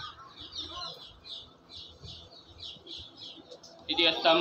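A small bird chirping over and over, about two short high chirps a second. Near the end a man's voice starts loudly over a microphone.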